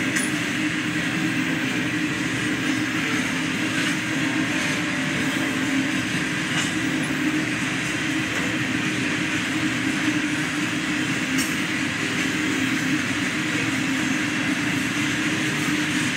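Herzog ballast hopper cars of a long freight train rolling past, a steady rumble of steel wheels on the rails that holds even throughout.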